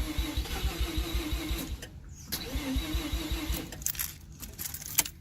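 Mazda RX-7 FC3S's 13B rotary engine being cranked by the starter in two bursts, each a steady rhythmic pulsing that stops without the engine catching: the car won't start. A few sharp clicks follow near the end.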